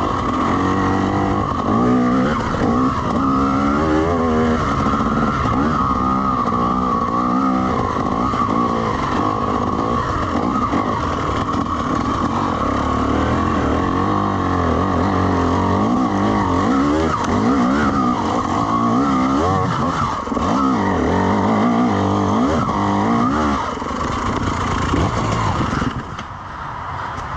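Two-stroke enduro dirt bike engine revving up and down hard under load on a slippery trail, its pitch rising and falling again and again, then easing off near the end.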